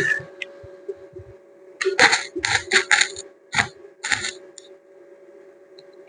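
Quick series of about six sharp metallic clinks, like small metal parts knocking together, over a steady low hum.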